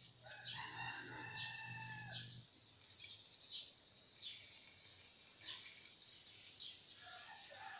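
Small birds chirping, short high chirps repeating roughly once a second, with a longer held call in the first two seconds.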